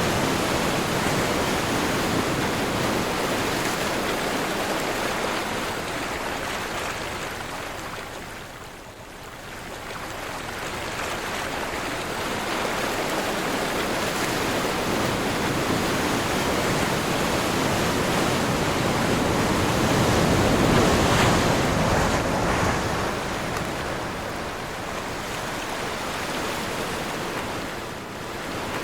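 Ocean waves surging and washing in a slow rise and fall: the surf dies down about nine seconds in, then builds to its loudest about twenty-one seconds in before easing off again.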